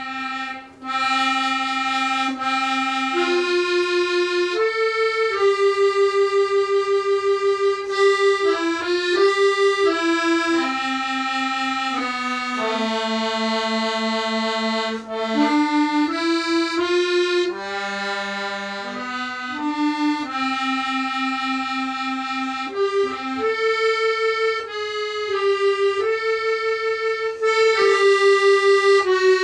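Accordion playing a slow melody, each note held for a second or so, in a reedy sound with many overtones.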